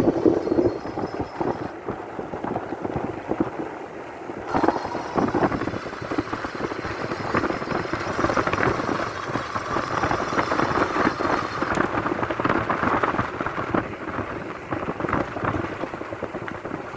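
Wind buffeting the microphone, mixed with tyre and road rumble, while riding an Ekx X20 electric bike. A steady, rough rushing noise that swells a little at times.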